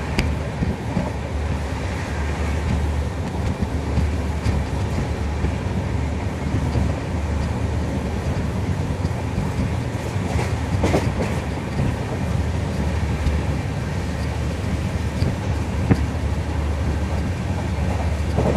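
Train running on the rails: a steady rumble of wheels on track, with an occasional sharp click.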